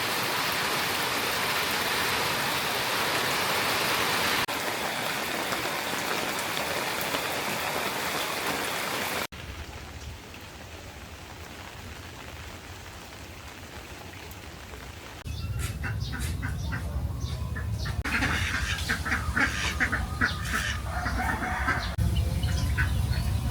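Steady heavy rain falling, a loud even hiss, which cuts off suddenly about nine seconds in to a quieter background. A few seconds later a busier scene starts, with a low rumble, many sharp knocks and clatters, and a few short calls near the end.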